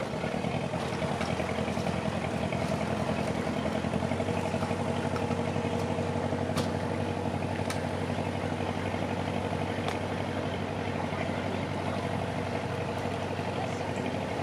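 A boat's inboard engine running steadily at low revs, a low hum with a few sharp clicks over it.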